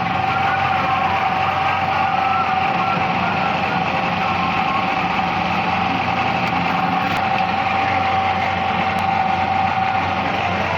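A small motorcycle engine running steadily at constant speed, with a steady whine over it.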